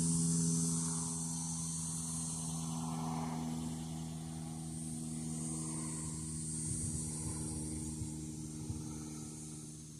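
Steady engine drone, slowly fading away.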